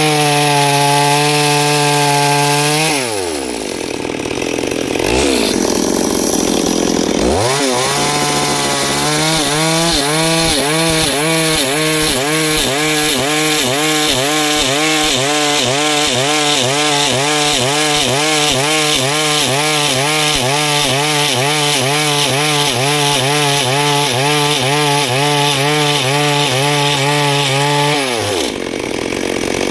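Two-stroke chainsaw cutting wood at full throttle. It slows briefly about three seconds in and revs back up. Through the rest of the cut its pitch wavers up and down about once a second under load, then it drops off near the end.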